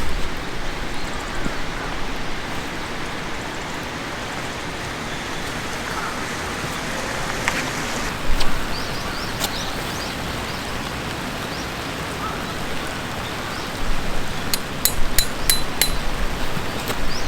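Steady rushing noise, like wind or running water. A few sharp clicks come about halfway through, and a run of light ringing clinks, about three a second, starts a few seconds before the end.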